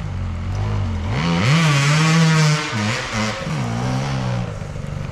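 Enduro dirt bike engine under throttle. The revs rise sharply about a second and a half in, hold briefly, drop twice in quick blips, then ease back to a lower speed.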